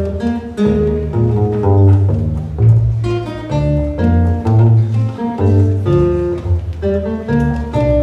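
A small instrumental ensemble playing a Baroque-style invention, several melodic lines moving note by note against a separate low bass line.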